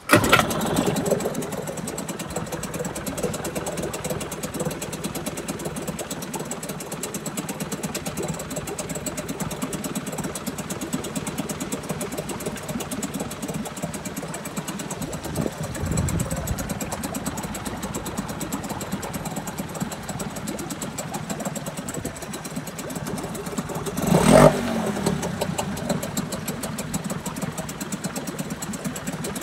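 Suzuki DT4 two-stroke 4 hp outboard motor starting abruptly and then running steadily, with one brief rev that falls back near the end.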